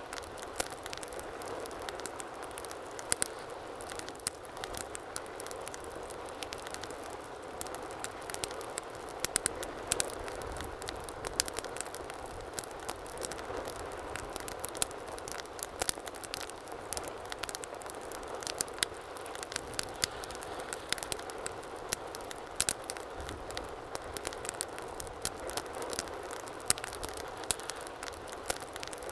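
Fireplace fire crackling: a steady hiss of burning with frequent sharp, irregular pops and snaps.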